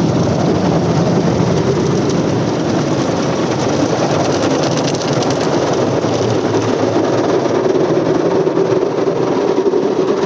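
Automatic car wash machinery working over the car: a loud, steady rushing of water spray and brushes against the bodywork during the wash stage.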